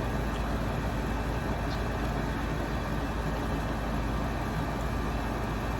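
Steady low background rumble and hiss with no distinct events, like a running engine or distant traffic.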